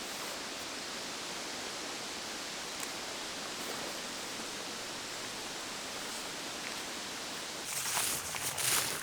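Steady, even outdoor rushing noise in the forest. Near the end, footsteps start: irregular crunching and brushing through the undergrowth of the hiking trail.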